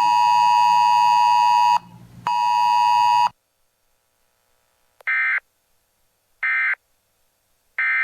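Two long electronic beeps cut off the weather radio's synthesized voice. After a pause come three short, identical digital data bursts about 1.4 seconds apart: the Emergency Alert System end-of-message code that closes the broadcast.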